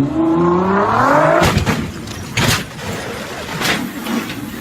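A car engine revving hard, climbing steeply in pitch, then cutting off into several sharp bangs spread over the next two seconds.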